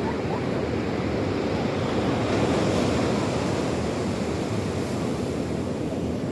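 Sea waves washing in, a steady rushing that swells a little louder about two to three seconds in, with wind on the microphone.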